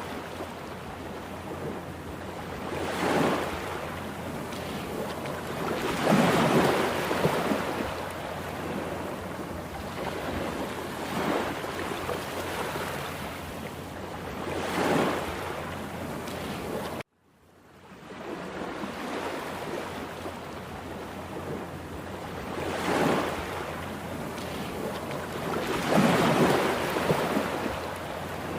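Rough sea: heavy surf with waves breaking one after another, a steady rush rising to louder crashes every few seconds. The sound cuts out abruptly for a moment a little over halfway through, then comes back.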